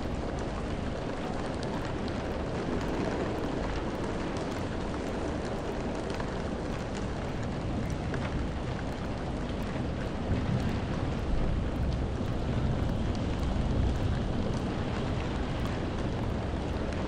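Steady rain falling, a dense even hiss, with a deeper low rumble swelling in from about ten seconds in.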